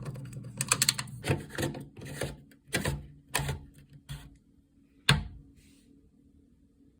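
Hands working the plastic parts of a front-loading washing machine: a quick run of clicks, several scraping strokes, then a single sharp snap about five seconds in. A faint low hum runs underneath.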